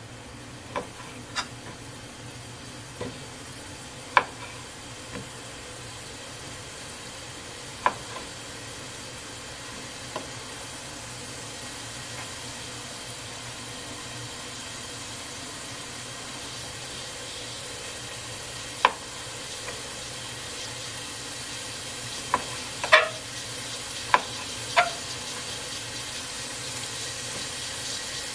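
Chicken pieces sizzling in hot oil in a pot, a steady frying hiss that grows slightly louder, with about a dozen scattered sharp knocks of a knife cutting chicken on a cutting board.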